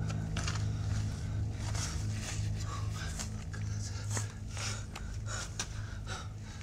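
A low steady hum under a run of short, irregular rustling and breathy noises from a person crouched low, several each second.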